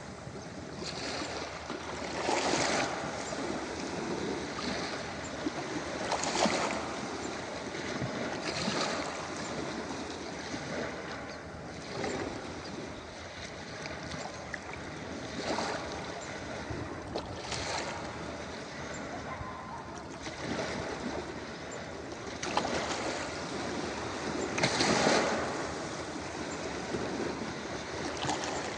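Ocean surf breaking on a beach: a continuous wash of water with waves surging and breaking every few seconds at irregular intervals, the biggest one about 25 seconds in.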